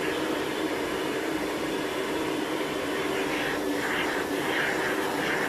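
Vacuum cleaner running steadily, a continuous motor hum with an even rush of noise.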